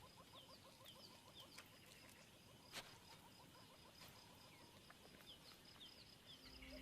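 Faint African bush ambience with repeated short, high, falling chirps from birds or insects, and a single sharp click about three seconds in.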